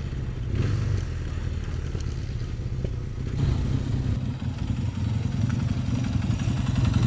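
Kawasaki Z440 LTD's parallel-twin engine running as the bike is ridden, its sound shifting about three and a half seconds in. It is missing a little, which the rider puts down to a fouled plug or dirt in the carbs.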